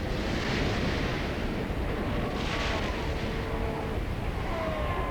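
Surf breaking on rock ledges, a steady rushing noise with a louder wave crash about two and a half seconds in. A few faint short cries rise over it, from the seal colony.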